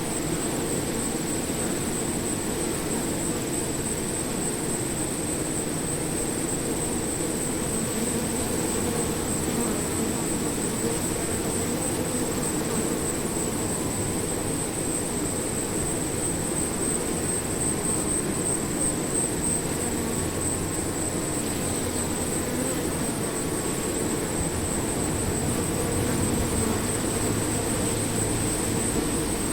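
A swarm of bees buzzing: a dense, steady drone of many wingbeats, with no breaks.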